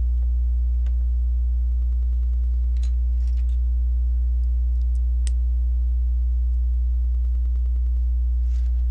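A steady low hum with a faint ladder of overtones, with a few soft clicks of LEGO pieces being handled and pressed together, about one second in, around three seconds and again around five seconds.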